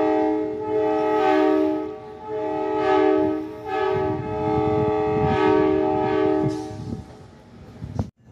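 A multi-chime train horn sounding one long, steady chord of several notes, swelling louder and softer a few times before it stops about seven seconds in.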